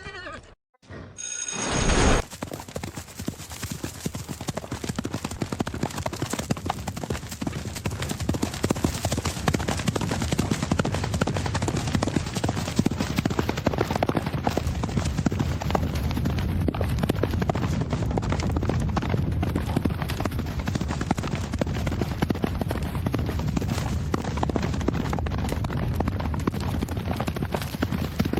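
Racehorse galloping on a fast dirt track: a rapid, continuous run of hoofbeats over a steady rush of noise, starting abruptly about two seconds in.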